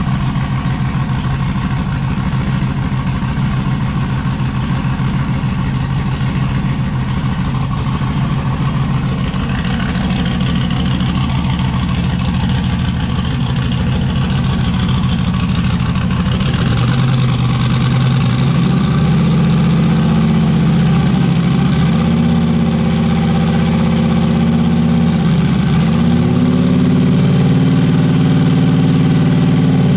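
Turbocharged LS V8 in an S10 pickup running at a steady idle, then raised to a faster idle about halfway through, its pitch dipping briefly a few times. It sounds clean.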